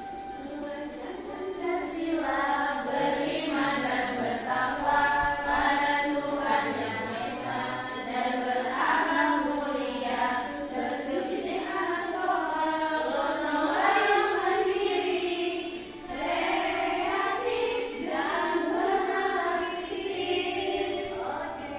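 Several voices singing a song together, starting about two seconds in.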